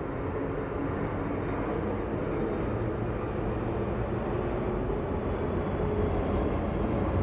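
Steady low rumble of a large vehicle, slowly growing a little louder.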